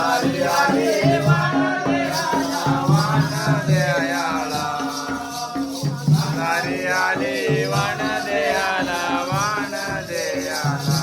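Jakhadi folk song: a voice singing a long, sliding melodic line over steady drum beats and a continuous rhythmic jingling rattle.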